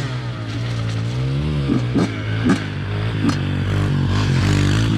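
Dirt bike engine revving hard through mud, its pitch rising and falling with the throttle, with a few sharp knocks about two to three seconds in.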